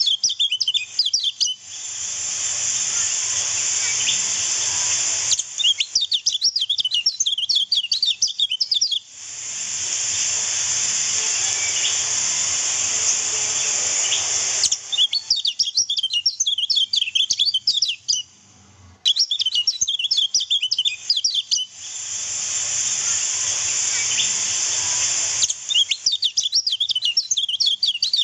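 Kecial kuning (lemon-bellied white-eye) song: bursts of rapid, high twittering chirps a few seconds long, five times. Between them come longer spells of steady rushing water.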